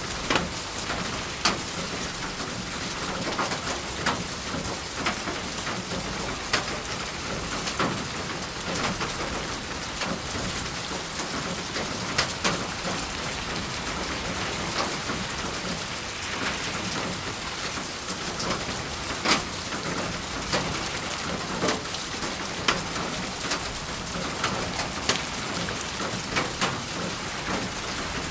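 Steady rain falling, an even hiss with frequent irregular sharp taps of single drops hitting a surface close by.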